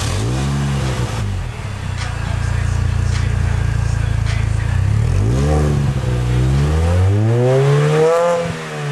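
MINI Cooper S R53's supercharged 1.6-litre four-cylinder revving through a John Cooper Works exhaust with emptied-out cans and a Borla muffler added downstream. A short rev at the start settles to a steady idle, then a quick blip comes about five and a half seconds in, and a longer, slower rev peaks near the end before falling away.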